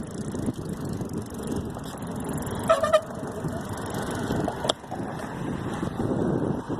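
Wind buffeting the microphone with a steady low rumble during a bike ride. About three seconds in comes one short pitched toot, and near five seconds a single sharp click.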